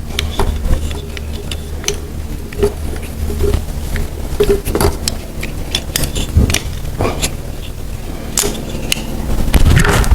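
Workshop handling noise: scattered clicks, clinks and knocks of tools and parts being picked up and put down, irregular throughout, over a steady low hum.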